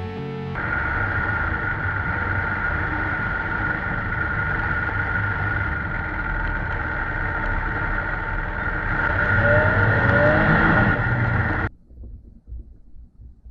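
Steady vehicle engine and driving noise that grows louder about nine seconds in, then cuts off suddenly near the end.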